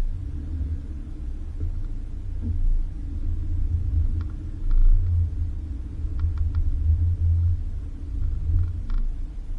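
Car driving on a dirt road: a steady low rumble from the engine and tyres, with a few light clicks and rattles in the middle and again near the end.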